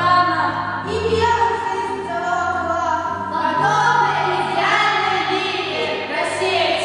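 Voices singing a song over a musical accompaniment with a sustained bass.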